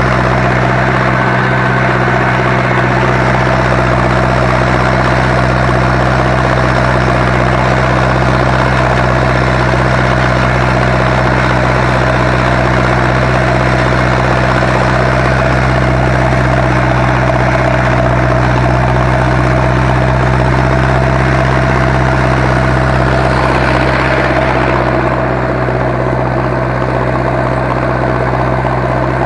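Zetor 7245 tractor's diesel engine running steadily, pulling a plough. Near the end its sound softens a little.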